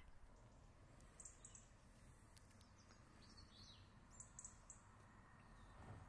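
Near silence with a few faint, high bird chirps: a quick cluster of notes about a second in, another around three seconds in, and a further cluster about four and a half seconds in.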